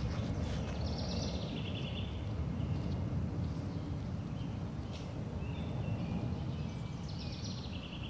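A bird singing twice, each song about a second long and stepping down in pitch, about a second in and again near the end, over a steady low outdoor rumble.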